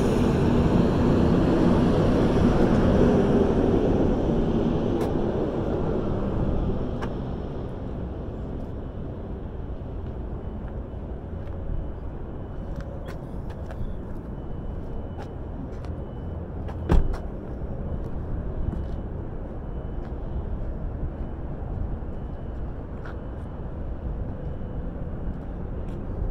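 Car moving, with road and wind noise on a camera mounted on the outside of the car. The noise drops about seven seconds in to a quieter steady rumble with light clicks, and there is one sharp knock later on.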